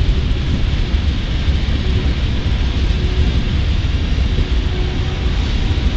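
Ballast hopper cars of a freight rock train rolling past, a steady low rumble of steel wheels on the rails.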